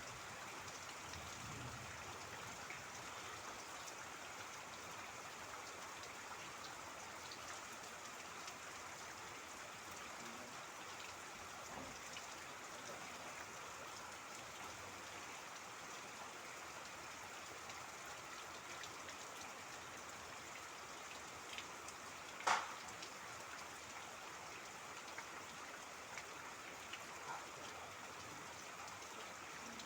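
Steady rain, a soft even hiss of falling water with scattered pattering drops. One sharp, louder tap stands out about three quarters of the way through.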